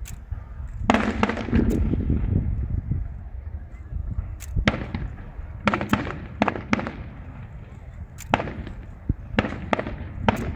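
Fireworks display: aerial shells bursting in sharp, irregular bangs, about a dozen, with several close together around the middle and again near the end, each trailing off, over a steady low rumble.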